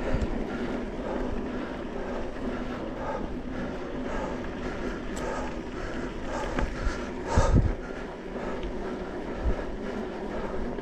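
Steady noise of riding along a dirt trail, with wind on the microphone and a faint steady hum. Brief louder knocks come about seven seconds in and again near the end.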